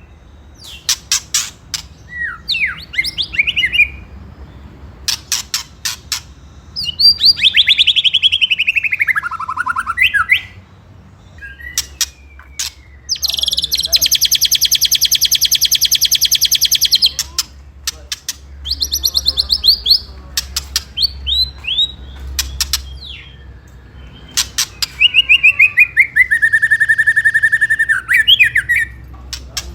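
White-rumped shama singing: loud whistled phrases and sweeping glides broken by sharp clicks, with a long, fast rattling chatter (ketrekan, the shama's fighting call) in the middle and another near the end.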